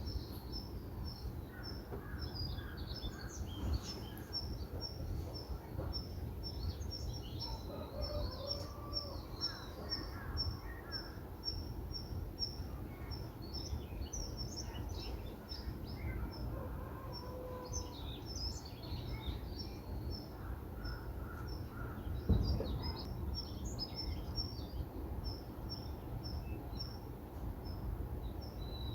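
Small birds chirping, one of them repeating the same short high note about twice a second for a stretch, over a steady low background rumble. There is one brief thump about two-thirds of the way through.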